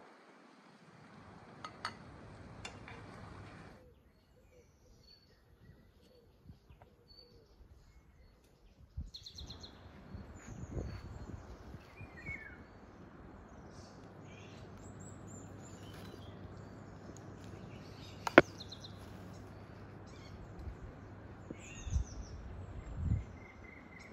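Birds chirping: many short, high calls over a steady outdoor background, thickening after the first third. A single sharp click stands out about three-quarters of the way through.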